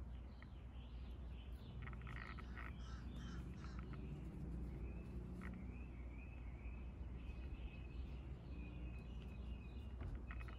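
Birds chirping and calling over a steady low rumble, with bursts of rapid chirping about two seconds in and again near the end.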